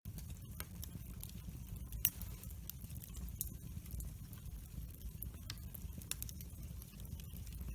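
Wood fire burning in a fireplace: a steady low rumble of flames with frequent sharp crackles and pops from the burning wood, one louder pop about two seconds in.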